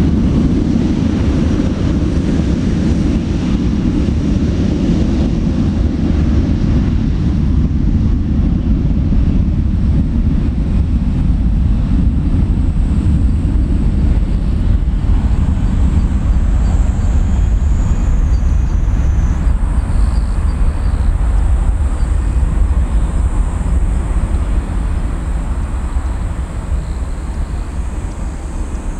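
Boeing 737-400's CFM56-3 jet engines at takeoff power: a loud, steady rumble that slowly fades near the end. A faint high whine glides in pitch about two-thirds of the way through.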